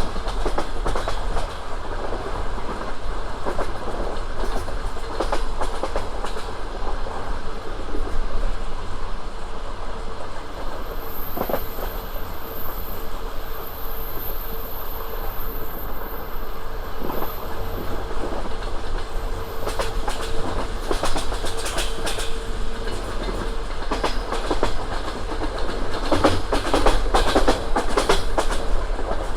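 Passenger train running along the line, its wheels rumbling and clacking over the rail joints. Groups of sharp wheel knocks come in the second half, over a steady rolling noise.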